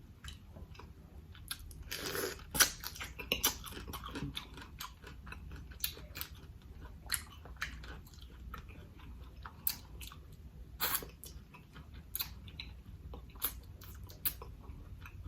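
A person chewing a large mouthful of seafood boil with rice and vegetables close to the microphone, with wet smacking and clicking mouth sounds throughout.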